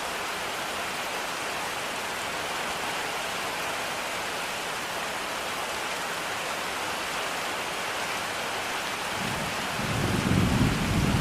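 Steady rain falling, with a low roll of thunder building up near the end, the loudest sound.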